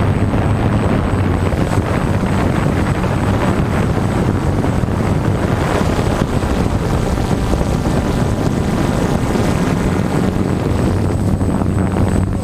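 DJI F550 hexacopter's six motors and propellers running steadily in flight, a loud, even drone with a low hum and some wind on the microphone.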